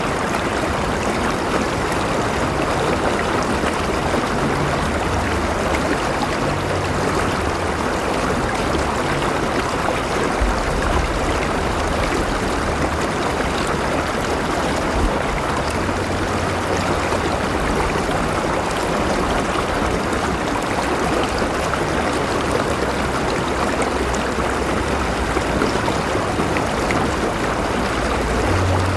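River water flowing and splashing over stones in a steady, unbroken rush, with a low rumble underneath.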